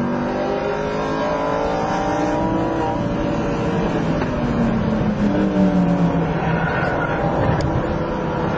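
Sports car engine heard from inside the car at track speed, its pitch falling slowly as the revs drop, over steady tyre and road noise.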